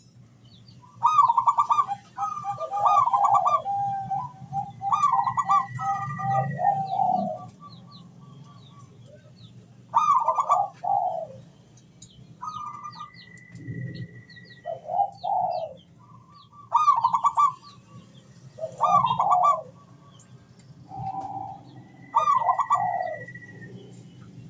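Zebra dove (perkutut) singing its cooing song: short phrases of rapid, stuttering coo notes, about nine of them, each a second or two long and spaced a few seconds apart. Thin high chirps from other small birds sound between the phrases.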